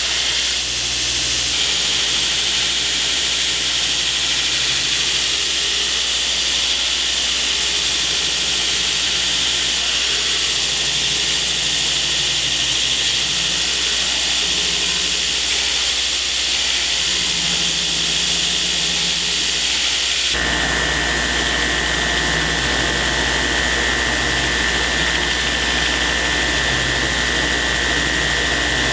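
Steel knife blade being ground on a 2x72 belt grinder, flat-grinding the bevels: a steady loud hiss of abrasive belt on steel over the motor's hum. The tone changes abruptly about twenty seconds in.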